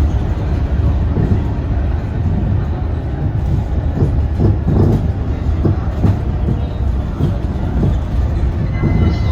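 Cabin ride noise of a Scania K230UB city bus: a steady low rumble from its diesel engine and the road, with a few knocks and rattles about four to six seconds in.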